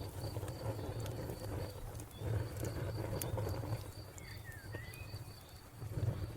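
Wood fire crackling, with a few sharp pops over a low rumble. A cricket chirps steadily about four times a second, and a bird gives a short call about four and a half seconds in.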